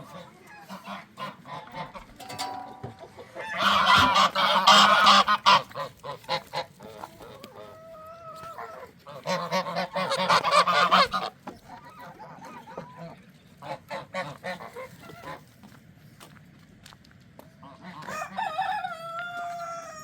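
Geese honking: two loud, harsh stretches of calling, with single drawn-out calls in between and again near the end.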